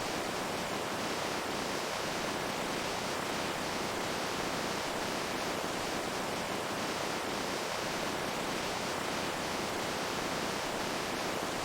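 Running water rushing in a steady, even hiss that does not change.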